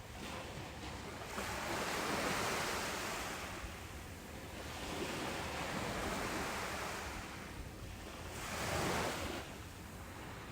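Ocean surf washing onto a beach, the hiss of the waves swelling and fading three times.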